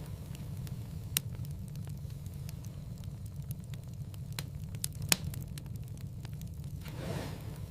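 Wood fire crackling in a fireplace, burning steadily with a low rumble and scattered small ticks. Two sharp pops stand out, about a second in and about five seconds in, and a soft falling hiss comes near the end.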